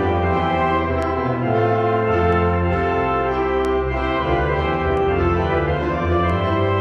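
Organ music: held chords that change about once a second, with a deep bass line underneath.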